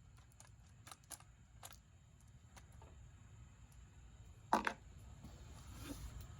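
Scattered light metallic clicks and taps of hand tools and parts handled on a stripped-down V8 engine block, with one louder clank about four and a half seconds in.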